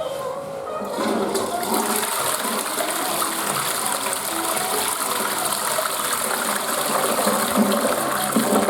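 Western-style toilet flushing: a rush of water starts about a second in and runs on steadily, with background music playing faintly underneath.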